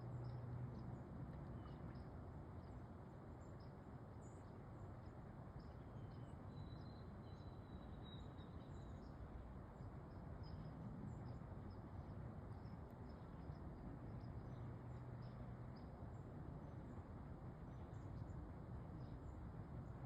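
Faint outdoor ambience: a steady low rush with scattered faint bird chirps, and a thin high whistle a few seconds in.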